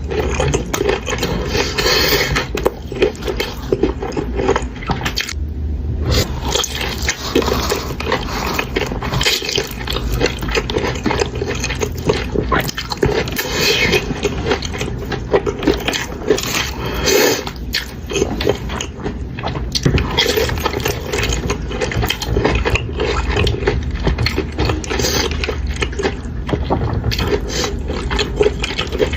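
Close-miked mukbang eating sounds: steady chewing and biting of fried chicken wings and Buldak noodles, a dense, continuous run of mouth noises.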